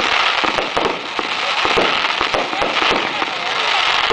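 Fireworks going off in a dense, rapid run of crackles and pops over a steady hiss, with no let-up.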